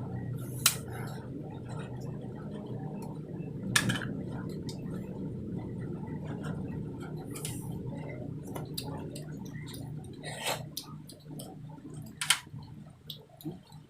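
Close-up eating sounds: slurping and sucking at spicy snails and their broth, with a few sharp clicks of shells or utensils, over a steady low hum.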